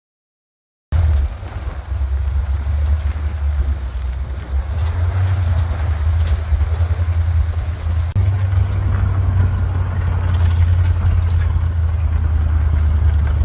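Ford Bronco's engine running as it drives, a steady low rumble that comes in after about a second of silence, with faint rattles over it.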